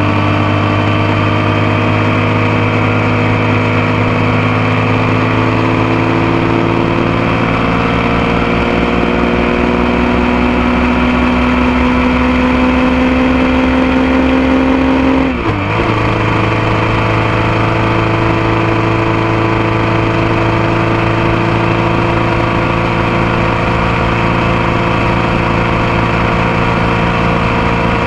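Motorcycle engine and exhaust heard up close, the engine pitch climbing slowly as the bike gains speed in gear. About halfway through there is a brief dip and the pitch drops suddenly, an upshift, after which the engine runs steadily at the lower pitch.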